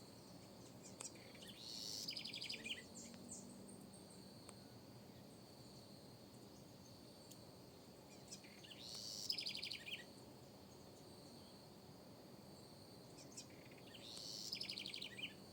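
Southern house wren singing three short, rapid trilled phrases about six seconds apart, over a steady high insect drone.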